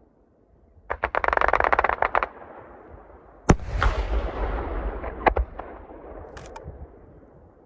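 Aerial fireworks: a rapid string of sharp cracks lasting about a second, then one loud bang that rumbles and echoes away, with a few smaller pops as it fades.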